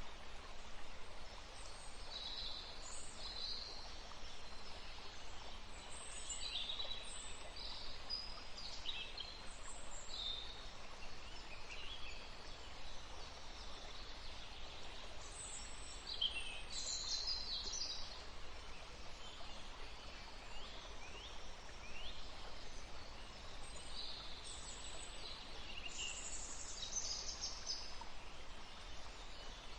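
Several small birds chirping and calling, with many short high chirps scattered throughout, over a steady background hiss and low rumble.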